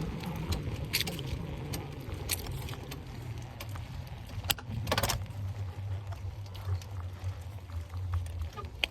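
Bicycle being ridden, its loose parts rattling and clicking over a low steady rumble, with a sharper rattle about five seconds in.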